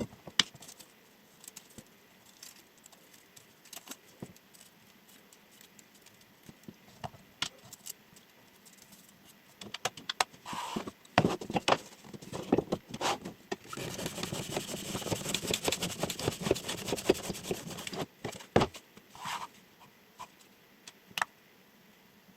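Chef knife being handled and cut with: scattered light clicks and taps, then a dense run of rapid cutting strokes lasting about four seconds in the middle, followed by a few more isolated clicks.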